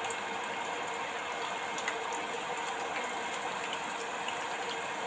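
Batter-dipped beetroot leaves frying in hot oil: a steady sizzle with scattered small crackles and pops.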